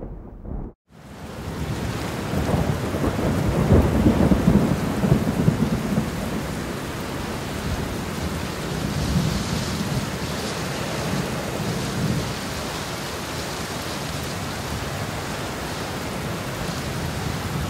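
Steady rain-like rushing noise, with a louder rolling rumble like thunder from about two to six seconds in.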